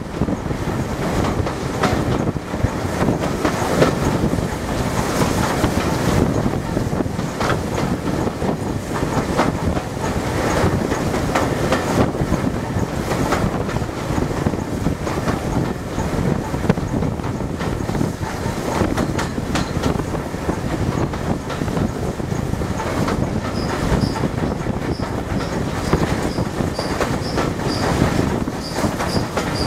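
Steam-hauled train running down a grade, heard from just behind the locomotive: a steady rumble of wheels with rapid clicking over the rail. In the last few seconds a high squeak repeats about twice a second.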